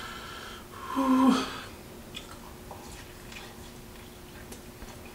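A man lets out a breathy "whew" about a second in, then faint scattered mouth clicks as he chews and bites again into a slice of bacon-wrapped meat, over a steady low hum.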